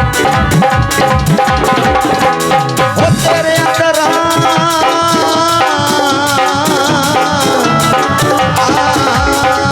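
Live Punjabi devotional folk music: hand drums keep a steady beat under a wavering melodic line.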